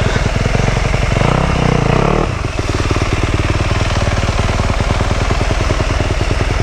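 Dirt bike engine idling with an even, rapid firing beat. It briefly gets louder and fuller for about a second, a little over a second in.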